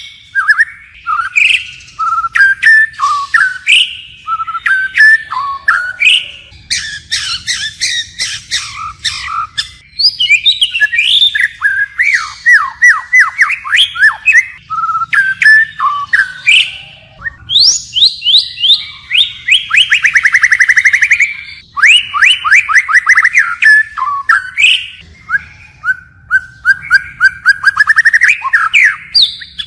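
White-rumped shama singing a long, varied song of fast runs of whistled notes and sweeping phrases, switching from one phrase to another without a break.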